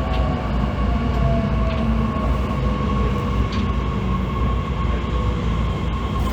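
Cabin running sound of an E501 series electric train car, recorded over its traction motors: a steady low rumble of wheels on rail with the motors' whine, some of its tones sliding lower as the train slows for its stop.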